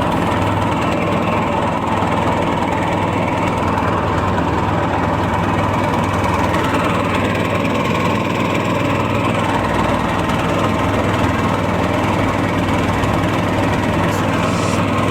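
Predator 224cc single-cylinder four-stroke engine on a longtail mud motor running steadily under way, with no change in throttle.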